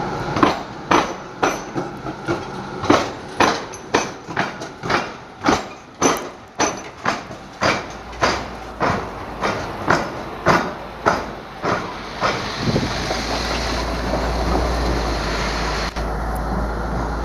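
Train wheels clacking over the rail-and-tram-track crossing diamond, about two clacks a second, as the train crosses the tram square. About twelve seconds in, the clacking gives way to a steady low rumble.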